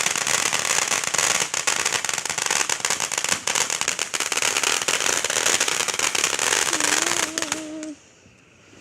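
Ground fireworks crackling: a dense, continuous fizz of rapid small pops. It cuts off abruptly about eight seconds in.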